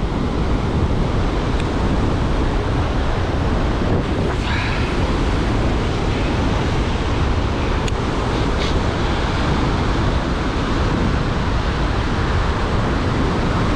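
Steady rush of surf and wind, with heavy low wind buffeting on the microphone and a few faint clicks.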